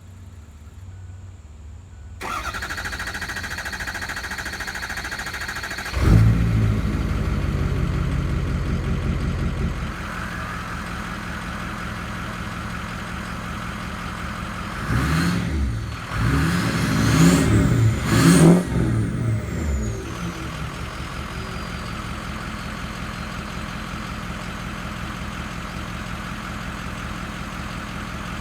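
Ford 6.0 Power Stroke V8 turbodiesel in a 2004 F-250, exhaust with the muffler deleted and the catalytic converters kept, being cranked for a few seconds before it catches and fires about six seconds in. It settles to idle, gets a few throttle revs around the middle, then idles steadily.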